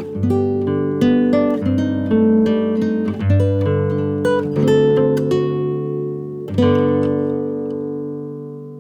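Background music on acoustic guitar: single picked notes, then a chord about two-thirds of the way through that rings on and slowly fades.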